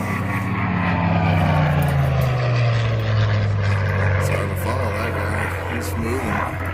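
Bell P-63 Kingcobra's Allison V-12 piston engine droning as the fighter passes, the pitch dropping as it goes by and loudest about two seconds in.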